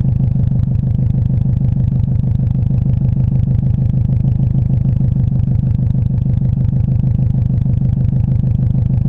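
Vehicle exhaust recorded close up, running at a steady idle: a loud, low, even pulsing that neither rises nor falls.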